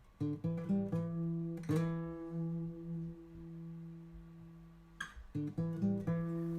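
Acoustic guitar music: a quick run of picked notes, then a chord left ringing and fading for about three seconds, then more picked notes near the end.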